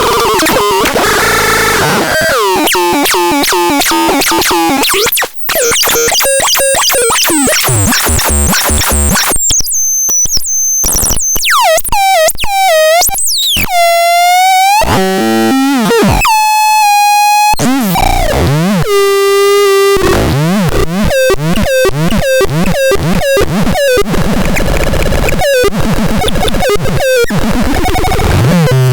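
Synthesizer playing harsh, noisy electronic sounds that keep changing: fast pulsing patterns, buzzy pitched tones and bending pitch sweeps, with a brief dropout about five seconds in.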